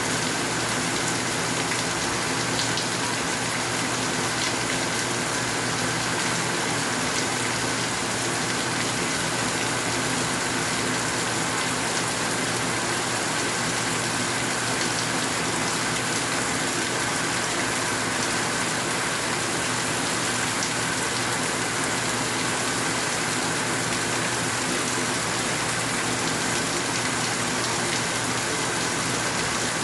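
Steady rain falling, an even hiss with a few scattered drop ticks, and a faint steady hum underneath.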